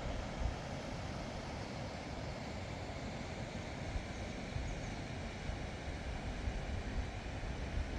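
Steady rushing noise with irregular low buffeting of wind on the microphone.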